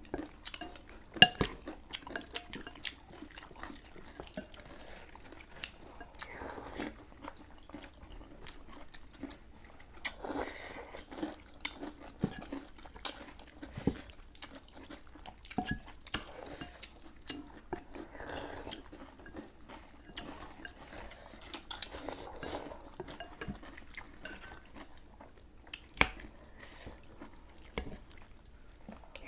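People chewing and biting through noodle soup with crunchy toppings, with many small sharp clicks of cutlery and bowls.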